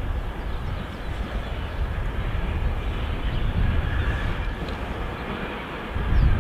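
Distant locomotive approaching along the line: a steady low rumble of engine and rolling wheels, louder near the end.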